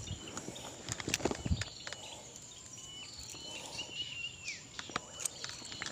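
Birds calling with short whistled notes, a few of them dropping in pitch at the end. Scattered rustles and a few soft knocks, loudest about a second and a half in.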